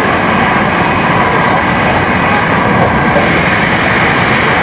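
Interior running noise of a Hankyu 7000-series electric train: a loud, steady rumble of wheels on the track that keeps an even level throughout.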